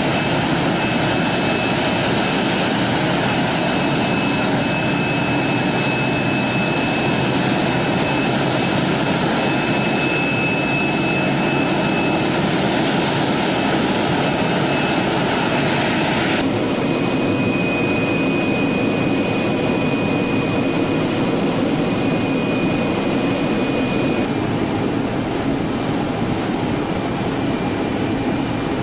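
Jet airliner engines running steadily, a loud rushing noise with steady high-pitched whine tones over it. The sound changes abruptly twice, about halfway through and again near the end, as if cutting from one aircraft to another.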